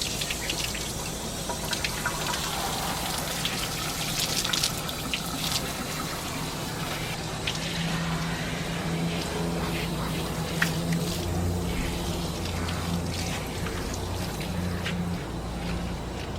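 Water running from a dog-washing station's tap and spraying and splashing onto a dog during a bath, with a steady flow and frequent small splashes. A low steady hum comes in about halfway through.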